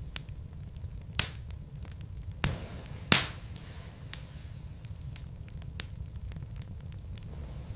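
Wood logs burning in a fireplace: a steady low rumble with frequent small crackles and three sharp pops, the loudest about three seconds in.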